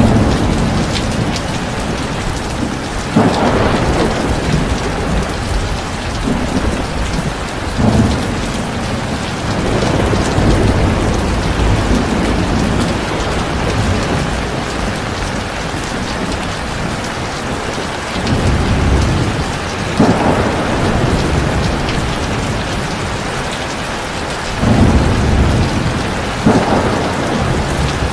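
Heavy rain falling steadily, with low thunder rumbles swelling up several times, each lasting a second or two.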